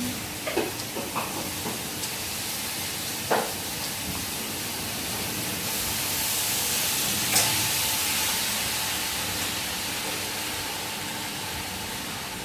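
Steady hiss of food cooking in a hot pan, swelling a little past the middle, with a few light clicks of a utensil against the pan.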